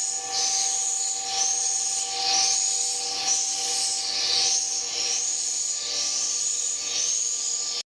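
Swiftlet chirps repeating about once a second, each a quick rising twitter, over a steady faint hum of several tones.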